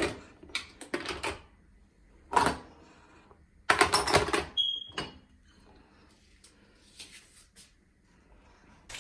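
Kitchenware being handled: a few sharp knocks and clatters, a longer rattle about four seconds in, and a brief high tone just after it.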